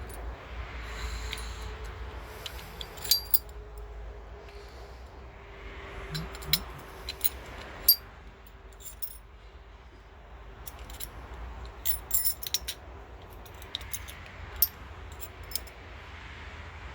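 Small metal parts of a lawn tractor transmission clinking and clicking against each other and the gearbox housing as they are fitted back in by hand, in scattered, irregular knocks.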